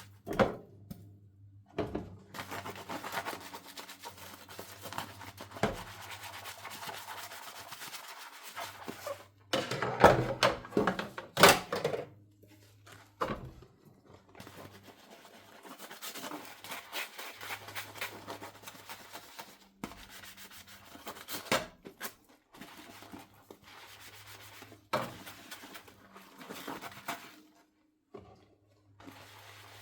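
Dishes being hand-washed with a scrub sponge: rubbing scrubbing strokes broken by short knocks and clatters of dishes, loudest about ten to twelve seconds in.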